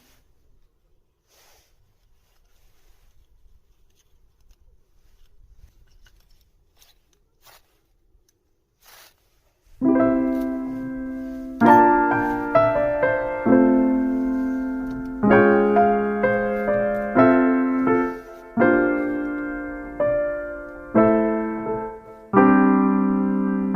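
Quiet with a few faint clicks, then about ten seconds in background piano music starts: slow chords struck every second or two, each ringing and dying away before the next.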